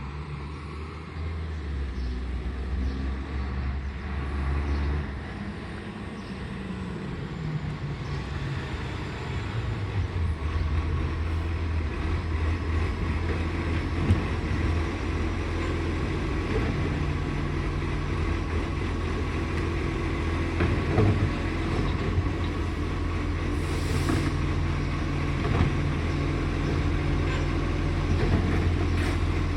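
Garbage truck engine running with a ticking crackle, the sound of a bad exhaust leak; the engine note shifts after the first few seconds, and there is a brief hiss about 24 seconds in.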